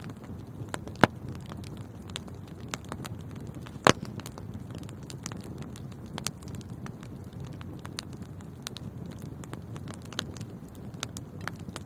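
Fire burning in a fireplace: a steady low rush of flames under constant small crackles, with two sharp louder pops about one second and four seconds in.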